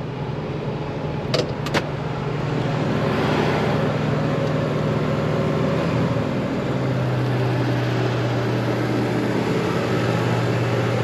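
1978 Lincoln Continental Mark V's V8 engine idling steadily, with two light clicks about a second and a half in. The hum settles a little lower in pitch about six seconds in.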